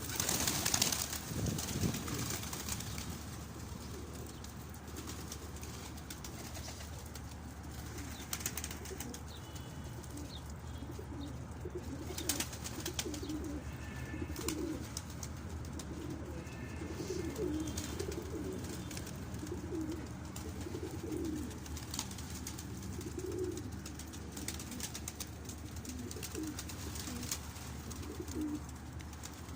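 Domestic pigeons cooing, many short low coos one after another, with a brief rustle near the start and scattered light clicks.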